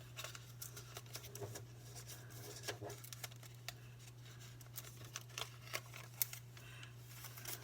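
Square origami paper being handled and folded, with scattered soft crinkles and light taps. A steady low hum runs underneath.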